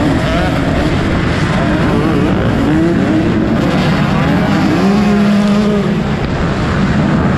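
Motocross bike engines revving hard, their pitch repeatedly climbing and dropping with the throttle, with one engine holding a steady note for about a second past the middle.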